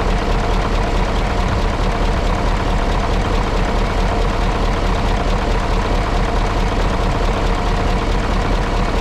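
Mitsubishi Fuso D8AY diesel V8 of a 1995 Hyundai Aero Queen High Decker coach idling steadily.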